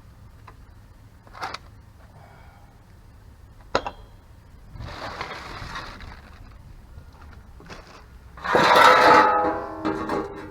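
Metal clinks and a scraping rasp from hand tools during brake work. Near the end a loud clank sets a metal part ringing for about a second.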